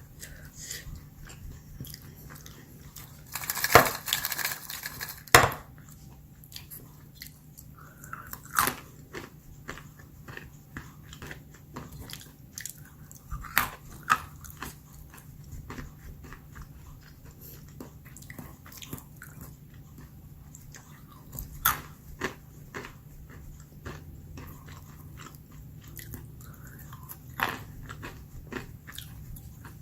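Whole roasted almonds being bitten and chewed close to the microphone: sharp, irregular crunches with softer chewing between, loudest about four to five seconds in.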